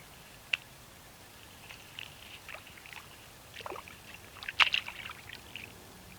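A North American beaver working branches in the water at its dam: a single sharp click about half a second in, then irregular splashes, sloshing and knocks of wood, loudest about four and a half seconds in.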